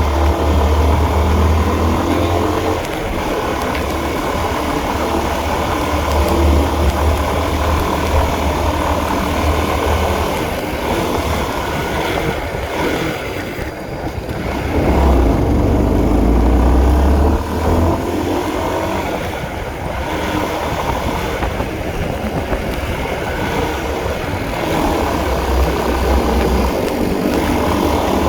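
Honda CB150R single-cylinder engine running as the motorcycle is ridden, under a heavy low rumble that swells and drops in stretches and is strongest about halfway through.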